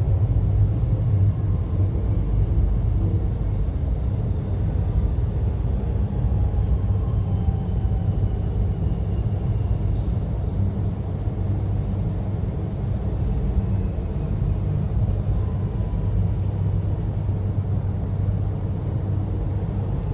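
Melbourne suburban train running, heard from inside the carriage: a steady, deep rumble with a few faint, gently falling whines above it as the train comes into a station.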